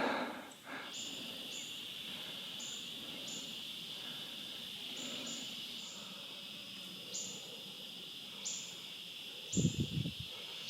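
Tropical forest insects trilling in a steady high-pitched drone, with short higher chirps repeating every second or so over it. A brief low rustle near the end.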